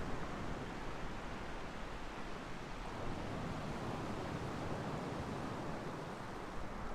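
Ocean surf washing onto the shore: a steady rushing noise with gentle swells, no distinct breaks.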